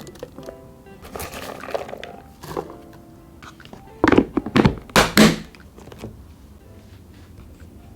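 Soft background music for the first few seconds, then about four loud thunks in quick succession from about four to five and a half seconds in, as items are handled and set down.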